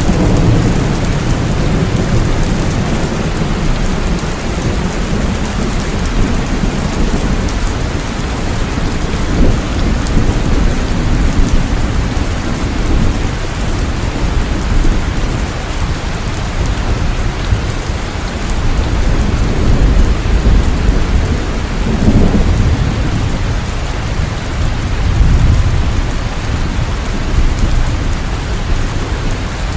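Steady, heavy rain with low rumbles of thunder that swell and fade a few times.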